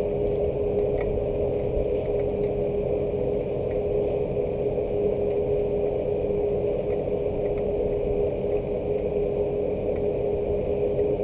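Steady rain falling without a break, with a constant hum on a single pitch running underneath and a few faint light ticks.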